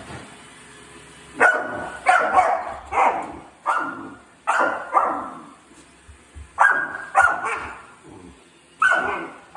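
A dog barking repeatedly at a robot vacuum, about ten barks in short runs of two or three, each trailing off quickly.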